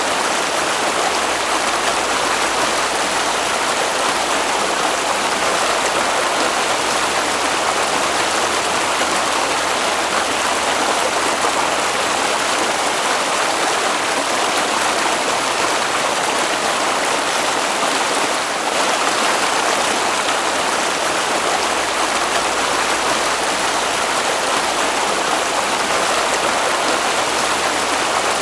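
Stream water flowing, a steady, even noise with no change.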